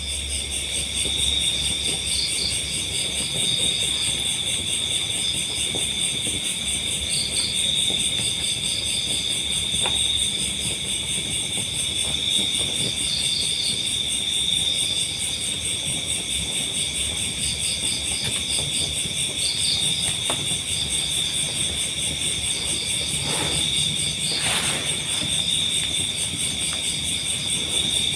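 Night chorus of crickets and other insects: a steady, high-pitched trilling, with short groups of chirps from another insect breaking in every second or two.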